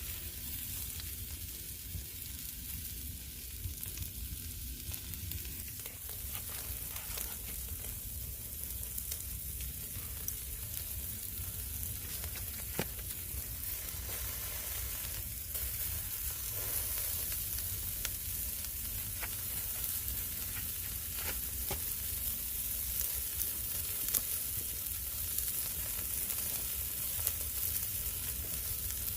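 Meat sizzling over a wood fire: a steady hiss with scattered pops and crackles throughout.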